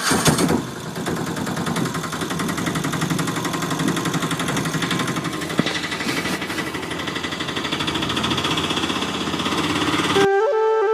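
Tractor-type engine running with a fast, even chugging, which cuts off abruptly near the end.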